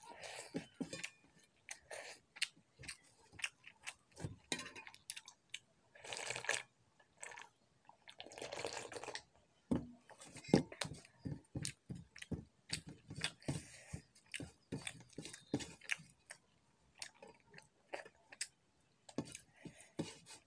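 Close-up mouth sounds of eating rice and dal by hand: wet chewing and lip smacks as a string of short clicks, with two longer noisy stretches about six and eight seconds in, and fingers scraping a steel plate.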